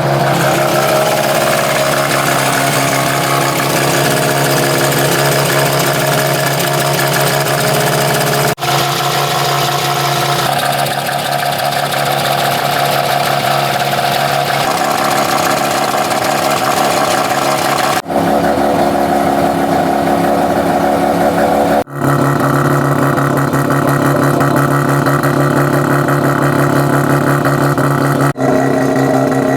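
Mazda RX-7 FC's naturally aspirated, half-bridge-ported 13B rotary engine running through cheap aftermarket muffler cans, in several short clips joined by abrupt cuts.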